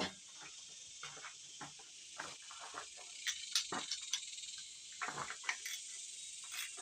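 Insects droning steadily, with scattered clinks and knocks of hand tools being handled.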